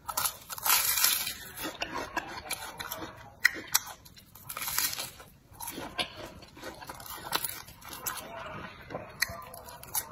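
Mouth sounds of eating a deep-fried glutinous rice cake (youzhagao): bites into the crisp fried crust and chewing, with irregular crackles and crunches throughout and a sharp crunch about three and a half seconds in.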